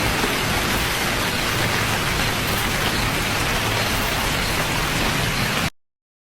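Steady rain falling, an even dense hiss, which cuts off abruptly near the end.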